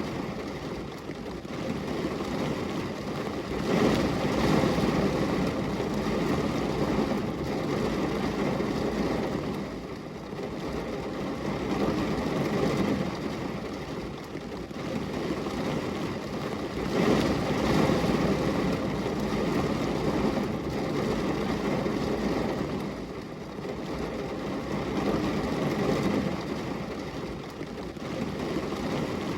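Rain rushing against a glass window pane as a steady, deep, muffled wash of noise that swells and eases every few seconds.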